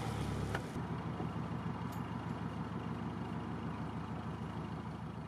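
Narrowboat engine idling with a steady low, even throb that slowly fades. A louder sound cuts off under a second in.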